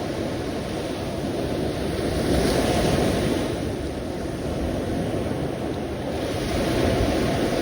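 Sea waves washing in, a steady rush that swells louder twice, once about a third of the way in and again near the end.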